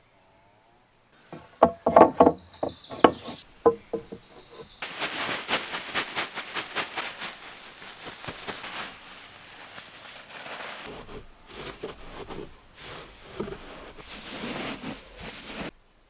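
Wood being worked with hand tools. About a second in comes a quick run of loud, sharp knocks on wood, then a long stretch of rapid, noisy strokes that stops abruptly near the end.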